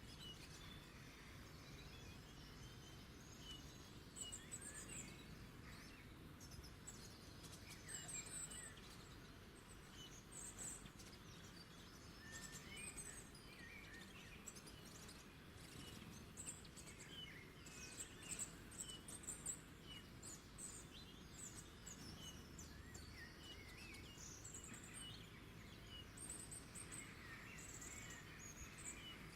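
Faint chorus of wild birds chirping and calling, many short high notes from several birds scattered throughout, over a steady low background hiss.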